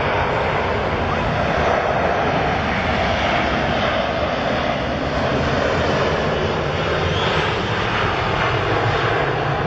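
Jet airliner engines running with a steady, even noise that holds its level throughout.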